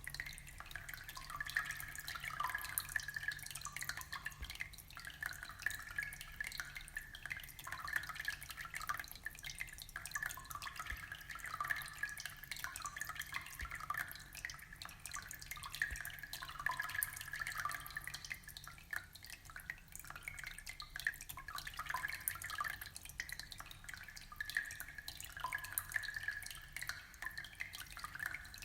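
Aquarium water trickling and dripping steadily in a dense patter of small splashes, over a faint low hum.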